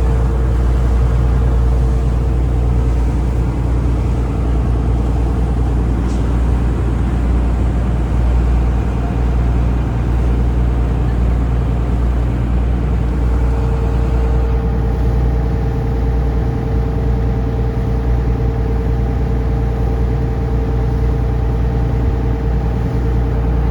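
Taxi boat's engine running steadily under way: a loud, even low drone with a steady hum above it.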